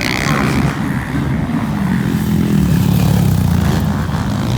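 Motocross motorcycle engines running on the race track, a steady loud engine drone.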